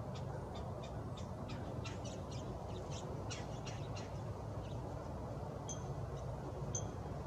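Small songbirds chirping: a quick run of short, high chirps, several a second, then two clear high notes near the end, over a steady low rumble.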